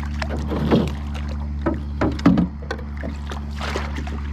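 Irregular knocks, bumps and small splashes in a lightweight canoe as a freshly caught pickerel is handled, the strongest about a second in and just past two seconds, over a steady low hum.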